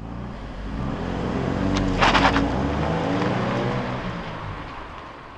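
Car engine sound effect: an engine revving as it goes past. It builds to a peak about two seconds in, then fades away.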